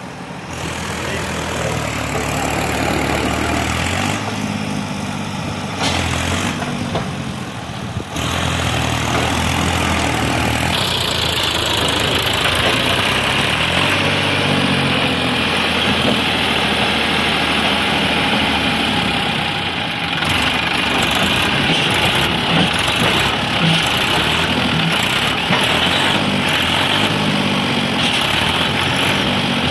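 Heavy vehicle engine running with its pitch rising and falling as the revs change. A steady high whine joins about eleven seconds in and carries on.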